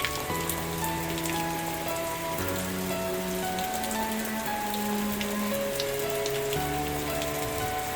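Steady rain with a dense patter of individual drops. Soft, slow music chords are held underneath.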